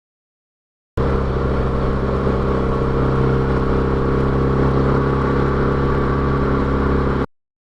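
BMW R1200GS boxer-twin motorcycle engine running at a steady, unchanging speed. It cuts in abruptly about a second in and cuts off just as abruptly near the end.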